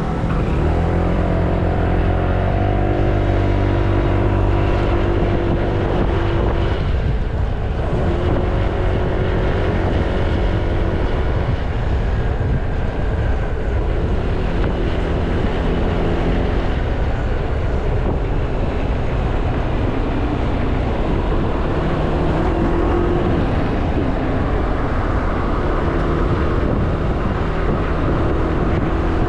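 Honda Click 160i scooter's single-cylinder engine running under way, its pitch rising and falling with speed, over steady wind noise on the microphone.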